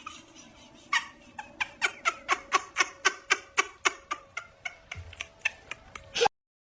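A cat chattering: a quick, even series of short clicking chirps, about five a second, that stops abruptly near the end.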